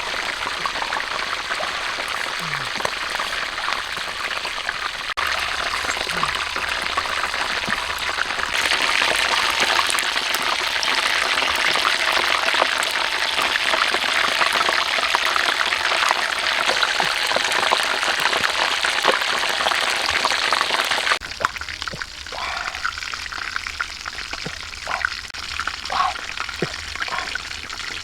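Food sizzling and crackling in hot fat in a pan: a dense, steady hiss that grows louder about a third of the way in, then drops sharply a few seconds before the end to a quieter sizzle with scattered pops.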